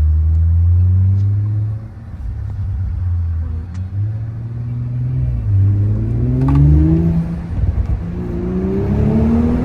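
Car engine accelerating hard, loud, its pitch falling away about two seconds in, then climbing in a long pull near the middle and again towards the end.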